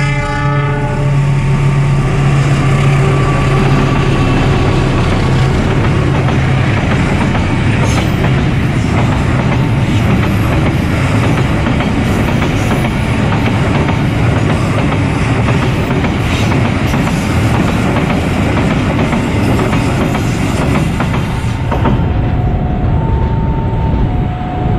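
A diesel locomotive sounds a short horn blast at the start. A long train of Pertamina fuel tank wagons then rolls steadily past over the crossing, with wheel and rail clatter. The level crossing's alternating two-tone warning alarm is heard again near the end as the last wagons clear.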